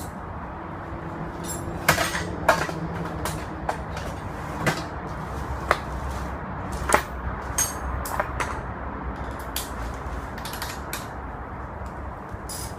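Hand tools knocking and clinking on the metal parts of a Yamaha Passol scooter being taken apart, a scattering of sharp clicks over a steady low hum.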